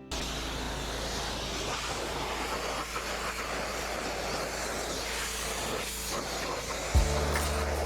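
Pressure washer spraying a steady jet of water, starting abruptly, pre-rinsing a mud-caked tractor wheel rim. Background music comes in about seven seconds in.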